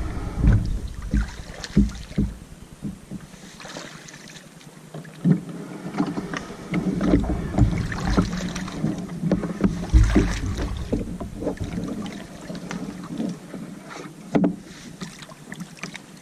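Wading through shallow water with a kayak where it is too shallow to paddle: irregular sloshing steps and scattered knocks.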